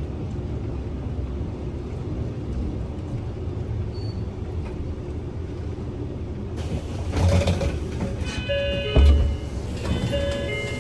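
Kyoto City bus interior: steady low engine and road rumble while driving. About seven seconds in, rattling sets in along with several short, steady high-pitched squeals, and a loud knock comes about two seconds later.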